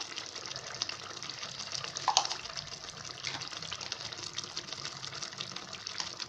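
Masala paste of onion, ginger and garlic sizzling in hot mustard oil in a kadhai: a steady crackling hiss. A brief tap sounds about two seconds in.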